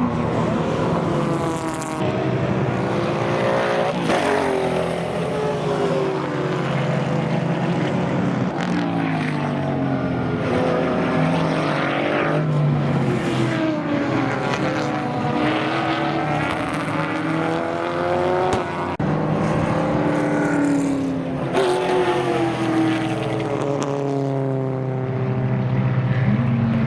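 Several racing sports sedans on track, their engines revving up and dropping back repeatedly through gear changes, more than one car heard at a time.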